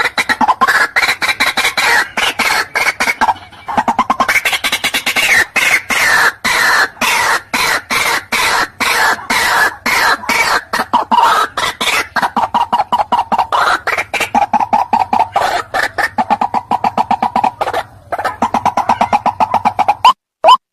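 White-breasted waterhen calling in a long, rapid series of short harsh notes, about five a second, with a brief break twice.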